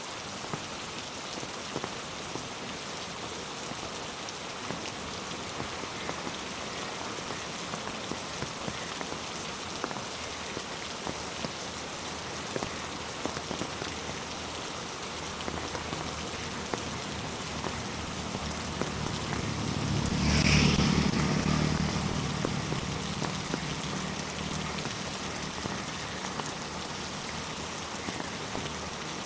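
Steady rain falling on a road and trees, an even hiss with the ticks of single drops. About two-thirds of the way through, a deep low sound swells, peaks and fades away over several seconds.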